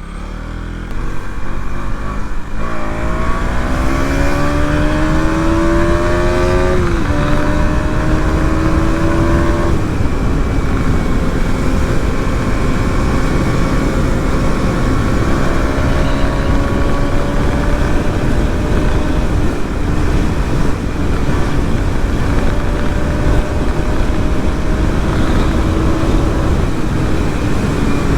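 KTM Duke 200's single-cylinder engine pulling away and revving up through the gears, its pitch climbing and dropping back at two upshifts in the first ten seconds, then running steadily at cruising speed.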